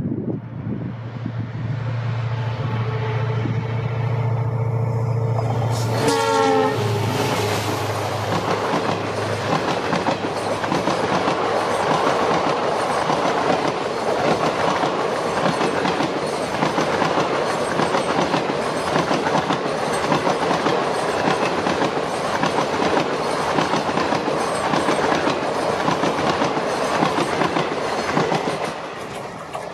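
An EMD WDP4 diesel locomotive, with a two-stroke V16 engine, approaches at speed with its horn sounding. About six seconds in it passes close by and its sound drops sharply in pitch. For the next twenty seconds a long rake of passenger coaches rattles past with a rhythmic clickety-clack of wheels over rail joints, fading near the end.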